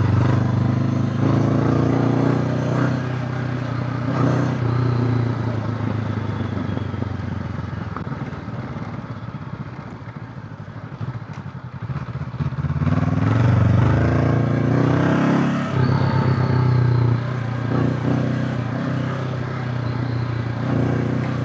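Honda CB500X parallel-twin motorcycle engine running on the move. The engine note eases off for a few seconds around the middle, then the revs rise again and it pulls harder.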